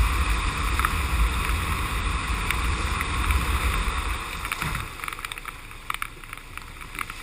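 Steady rumbling noise of wind and rushing water from storm footage, easing off about halfway through.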